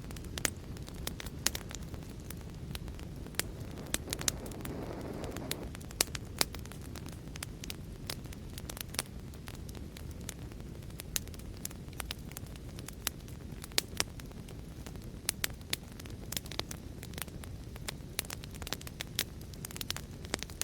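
Fireplace fire crackling: irregular sharp pops and snaps over a steady low rumble, with a brief hiss about four seconds in.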